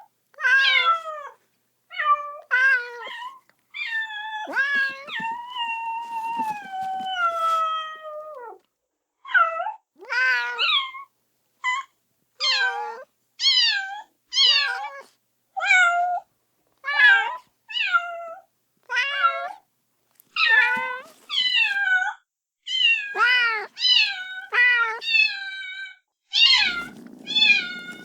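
Kitten meowing over and over, calling for its mother: short, high cries that fall in pitch, one after another. About four seconds in comes one long, drawn-out cry that slides slowly down. A low, steady rumble starts near the end.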